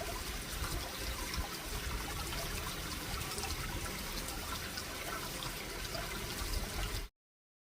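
Eggplant frying in hot oil, a steady sizzle with fine crackling, which cuts off suddenly near the end.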